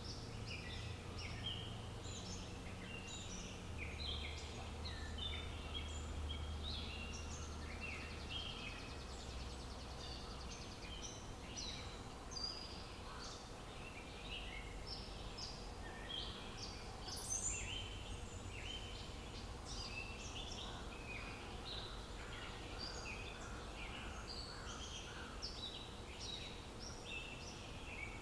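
Many songbirds chirping and twittering continuously in a dense chorus of short, high calls, over a low steady rumble.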